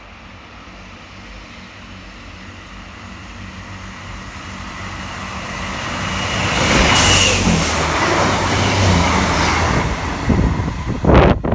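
A train approaching along the line and passing close by, getting steadily louder over about seven seconds, then running past loudly. Near the end, gusts of wind from the passing train buffet the microphone.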